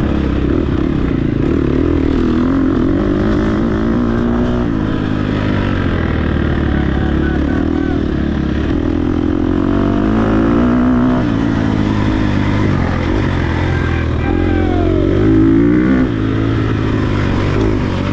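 Dirt bike engine revving up and dropping back repeatedly as the rider works through the throttle and gears on an off-road course, over a steady low rumble. The loudest rev comes about fifteen seconds in.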